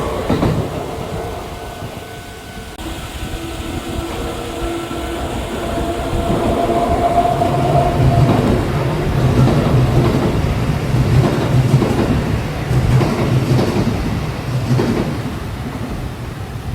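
Kintetsu electric train passing, its wheels clacking over rail joints. The running noise dips a couple of seconds in, builds again to its loudest through the middle, and eases near the end.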